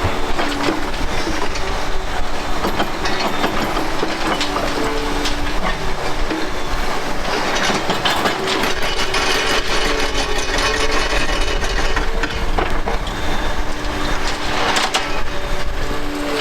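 Large Liebherr demolition excavators at work on concrete: continuous clattering and crunching of broken concrete and rubble with many sharp knocks, under several steady machine whines that shift up and down in pitch.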